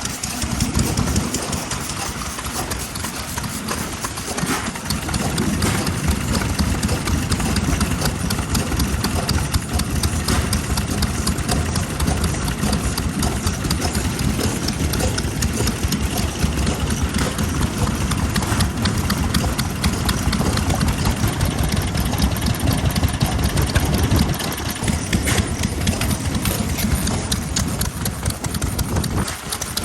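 Vintage Japanese stationary engine running steadily at low speed, with an even train of exhaust beats; its low end eases off a little near the end.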